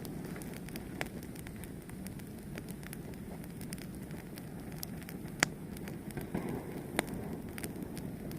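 Fire burning with a steady low rush and scattered sharp crackles and pops. The loudest pop comes about five and a half seconds in.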